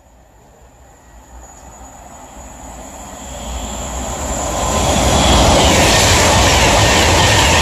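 Class 390 Pendolino electric train passing a station non-stop at speed. It starts as a faint rumble that grows steadily louder over about five seconds as it approaches, then stays loud and even as the carriages rush past.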